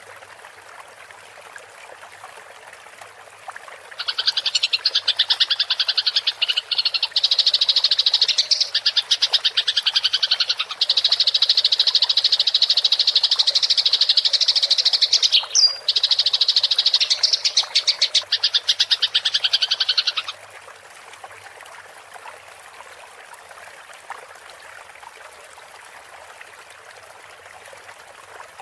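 Eurasian tree sparrows giving a fast, unbroken fighting chatter, a dense run of chirps for about sixteen seconds from about four seconds in. A steady trickle of water hisses under it and is heard on its own before and after.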